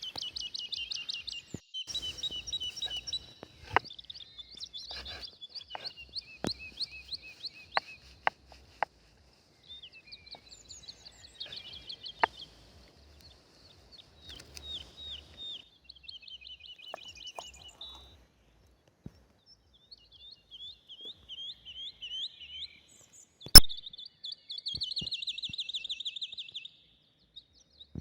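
Songbirds singing in repeated trilled and chirping phrases, with a few scattered sharp clicks and one loud sharp click about two-thirds of the way through.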